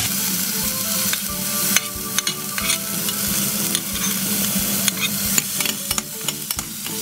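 Chopped onion and garlic sizzling in oil in a stainless steel frying pan, stirred with a metal spatula that clicks and scrapes against the pan.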